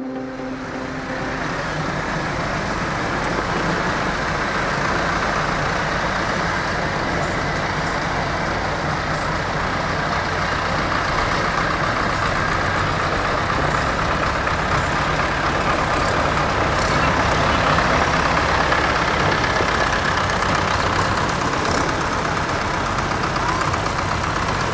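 A tractor engine running steadily and loudly, swelling a little louder past the middle.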